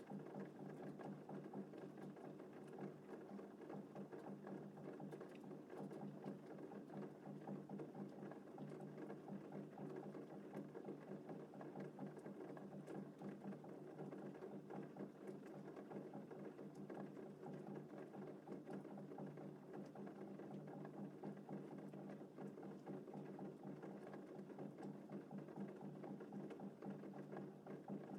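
Gentle rain falling steadily: an even wash of many small drop ticks, with no thunder.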